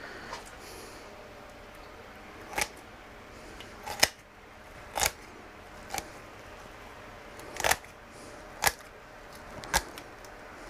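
Kitchen shears snipping through a whole chicken along the backbone: about eight sharp snips, roughly one a second, as the backbone is cut out.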